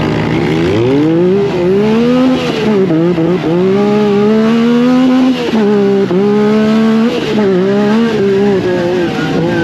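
Yamaha turbo side-by-side's engine revving hard as it is driven, its pitch climbing and then dropping sharply several times, around three, five and a half and seven seconds in, as the throttle is lifted or the gears change.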